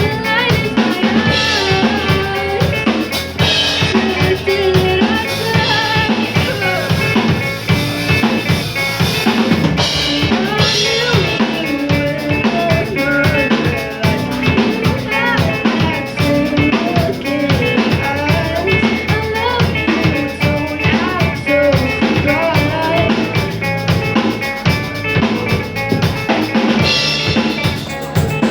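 Live band playing a song, with a full drum kit keeping a steady beat (kick, snare and rimshots) under a bending melodic line, likely the electric guitar.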